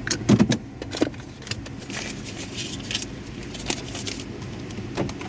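Car wash tunnel machinery running with a steady low hum, several sharp knocks and clicks, and a stretch of hiss partway through.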